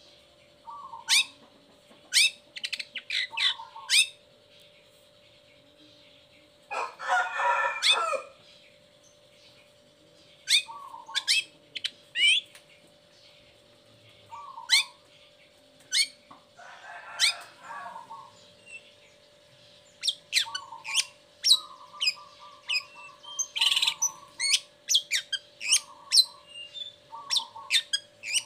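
Long-tailed shrike singing a fast, varied song of sharp whistled notes that sweep down from very high, mixed with short low nasal notes. Two harsh raspy chatters come about 7 and 17 seconds in. A faint steady hum runs underneath.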